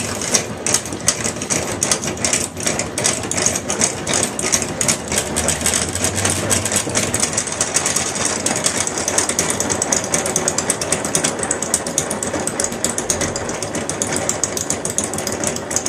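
Honey extractor spinning fast with a balanced load of uncapped honeycomb frames: a steady, rapid mechanical rattle of many quick clicks.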